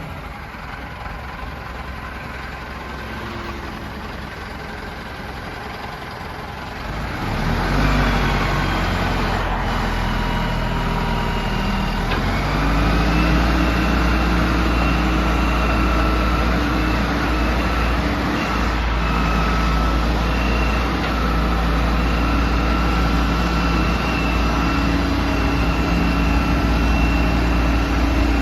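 Backhoe loader's Cummins diesel engine running, quieter at first and louder from about seven seconds in. About twelve seconds in its pitch steps up and then holds steady at the higher speed.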